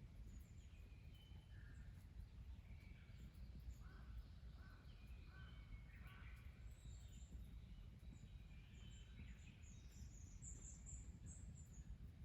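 Faint birds calling: scattered short chirps and calls, a few higher ones clustered in the second half, over a low steady rumble of background noise.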